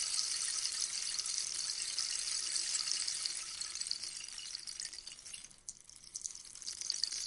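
Rainstick cascading: a dense, rain-like patter of pellets falling through the tube. It thins out and almost stops about five and a half seconds in, then picks up again near the end.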